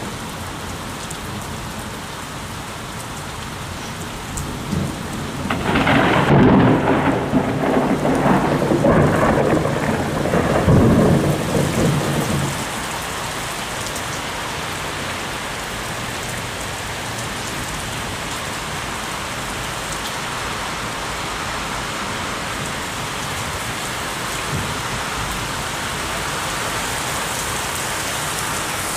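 Heavy rain falling steadily, with a rolling peal of thunder that breaks about five seconds in and rumbles on in several surges for some seven seconds before dying back into the rain.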